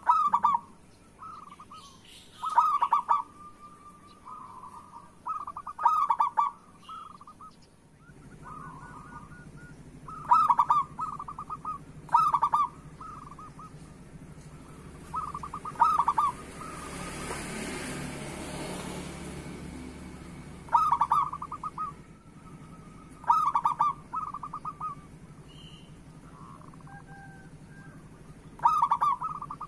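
Zebra dove (perkutut) cooing: about nine short phrases of rapid, stuttering coos, a few seconds apart. A low steady rush sits underneath through the second part and swells briefly around the middle.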